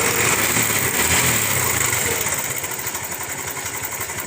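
Bajaj Pulsar 150 single-cylinder engine running with a fast metallic rattle, picking up slightly about a second in and easing back after about two and a half seconds. The mechanic takes the noise for a rattling timing chain.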